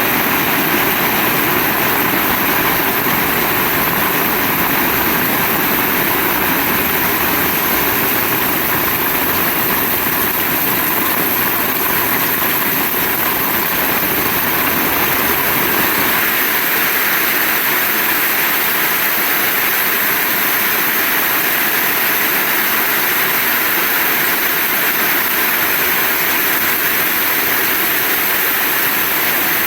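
Heavy rain falling, a steady dense hiss. A low rumble beneath it drops away about halfway through.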